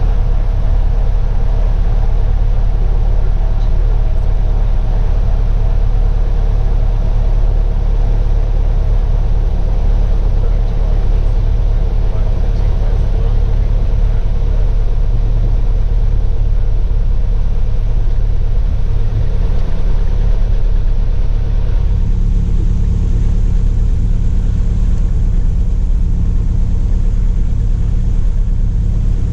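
Steady drone of a single-engine light aircraft's piston engine and propeller, heard from inside the cabin in cruise. The engine is the Cessna Cardinal RG's four-cylinder Lycoming, and it holds an even, unchanging note.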